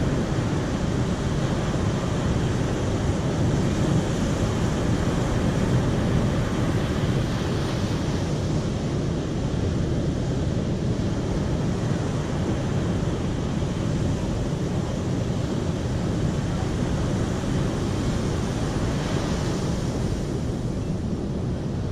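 Steady rush of flowing water, a continuous even noise weighted toward the low end.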